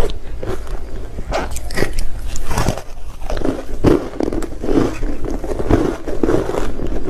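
Ice being bitten and chewed close to the microphone: a quick run of crunching bites, then steady chewing crunches about twice a second.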